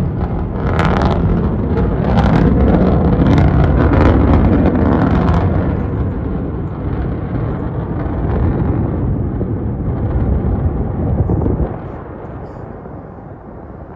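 Falcon 9 rocket rumbling heard from a distance, with sharp crackling pops in the first five seconds. The roar eases off, then drops away suddenly about 12 seconds in.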